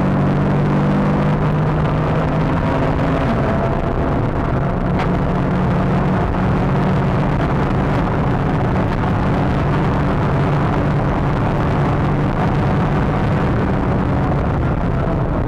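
Renault Clio 182 Trophy's 2.0-litre four-cylinder engine heard from inside the cabin, running at a steady, constant note without revving up or down, over a continuous rush of road and wind noise.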